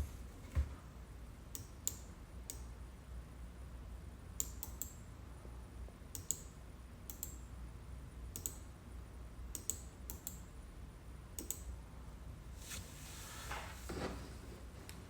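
Scattered clicks of a computer keyboard and mouse as names are typed in, in ones and short clusters, over a steady low hum. A brief rustle comes near the end.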